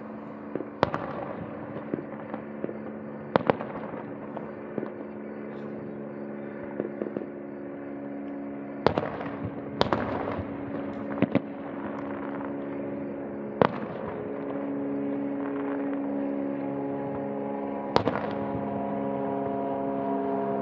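Aerial fireworks shells bursting: sharp booms every few seconds, about seven in all, with lighter crackles between them.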